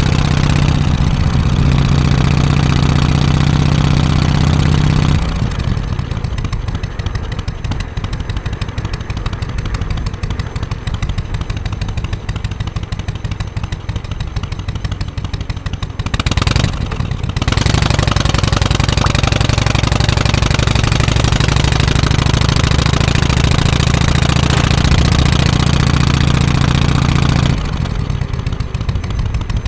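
Harley-Davidson FXSTC Softail Custom's 1340 cc Evolution V-twin exhaust while riding. It runs at a steady pull at the start and again in the second half. From about five seconds in there is a quieter stretch where the separate firing beats come through, and the level drops again near the end.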